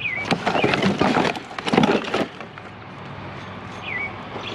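Junk being rummaged through by hand: clattering, rustling and knocking of wire and scrap for about two seconds, then quieter handling. A bird chirps a few times, each a short whistle sliding down and levelling off.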